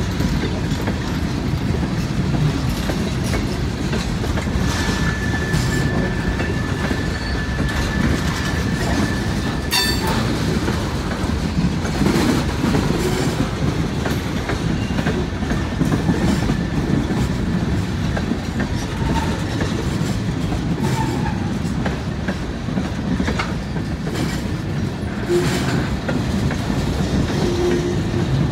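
Freight train of mixed freight cars rolling past: a steady rumble of railcar wheels clicking over the rail joints. A faint thin wheel squeal runs for a few seconds partway through, and there is a sharp clank about ten seconds in.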